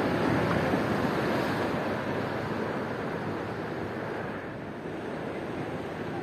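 Ocean surf breaking and washing in, loudest in the first couple of seconds and then easing off.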